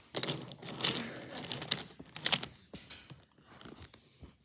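Small toys being handled on a hard surface: scattered light clicks and knocks over faint rustling.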